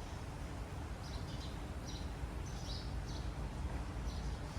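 Small birds singing, short high chirps repeating every half second to a second, over a steady low background rumble.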